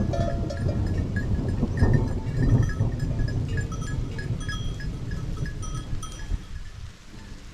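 Bells on grazing livestock clinking irregularly, many short overlapping rings, over a low rumble that is loudest in the first three seconds.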